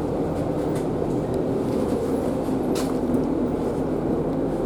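British Rail Class 150 Sprinter diesel multiple unit running with a steady, even hum.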